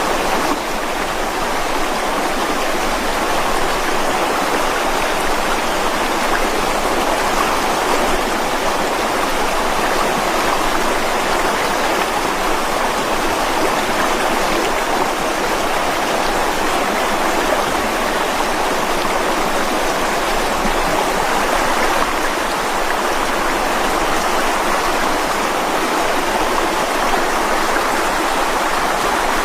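Mountain stream running over rocks: a steady, even rushing of water with no breaks.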